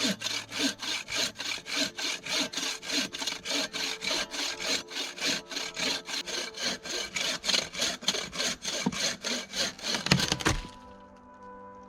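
Hand saw cutting through resin-soaked conifer wood in fast, even back-and-forth strokes. The sawing stops about ten seconds in, just after a couple of sharp knocks.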